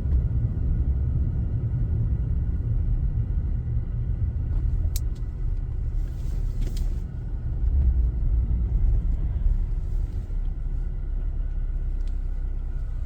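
A vehicle driving at steady speed: a continuous low rumble of engine and road noise.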